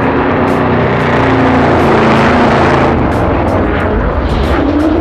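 Drift cars' engines at high revs sliding past close by, a dense steady racket that swells slightly about two seconds in.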